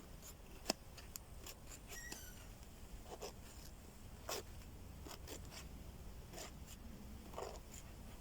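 Faint, scattered short scrapes and clicks while someone works at lighting a campfire by hand, with a sharp click about a second in and several scraping strokes a second or more apart.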